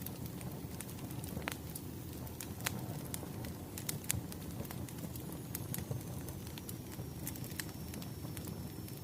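Wood fire burning, with a steady low rumble and irregular sharp crackles and pops of the burning logs. A faint thin high whistle comes in about five seconds in and slowly drops a little in pitch.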